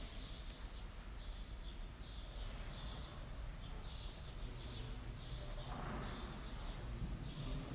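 Small birds chirping over and over, short high chirps about two a second, over a steady low background hum. A brief rustle comes about six seconds in.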